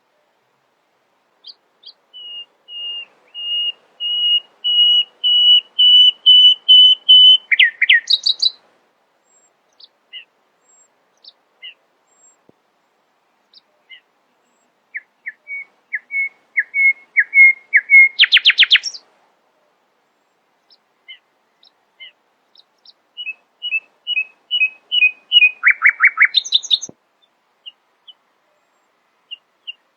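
Nightingale singing: three phrases, each a series of repeated whistled notes swelling in loudness and ending in a rapid rattling trill, with scattered single notes between them and a fourth phrase starting near the end.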